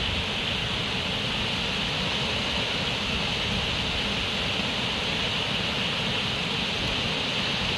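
Steady rushing water, an even hiss that stays level throughout, strongest in its upper range.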